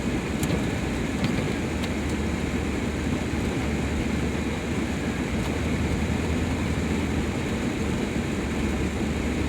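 Steady drone of a Dodge van driving on a snowy road, heard from inside the cab: a constant low engine and tyre rumble with a hiss over it.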